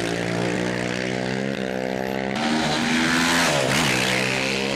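Off-road race motorcycle engine running hard at high revs. Its pitch briefly dips and climbs again twice, as at gear changes, over a steady rush of wind.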